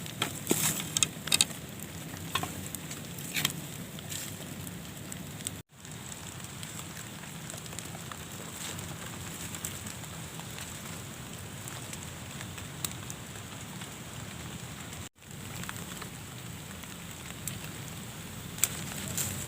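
Steady hiss of heavy rain with scattered sharp crackles and pops near the start and near the end. The sound cuts out for an instant twice.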